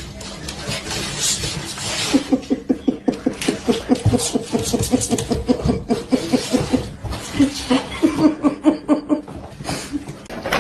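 A person laughing hard in a long run of short, rapid, evenly spaced bursts, about five a second, pausing briefly and then laughing again near the end.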